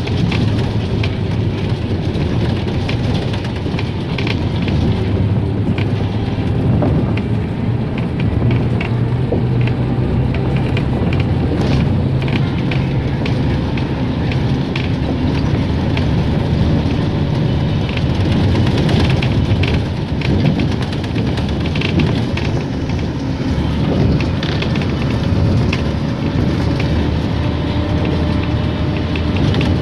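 A car driving over a rough, broken road surface under repair: a steady low engine and tyre drone with many scattered rattles and knocks.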